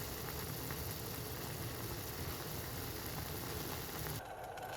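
Pot of water at a rolling boil with instant ramen noodles cooking in it: steady boiling that cuts off abruptly about four seconds in.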